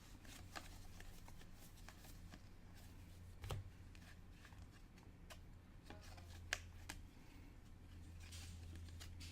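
Trading cards being handled and flipped through by hand: faint, scattered soft clicks and slides of card on card.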